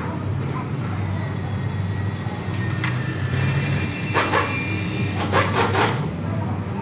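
A car running with a steady low hum. There is a single sharp click about three seconds in, then a cluster of sharp knocks from about four to six seconds in.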